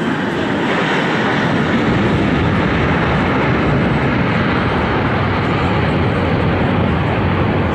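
Aircraft engine noise, loud and steady, swelling up just before and then holding level.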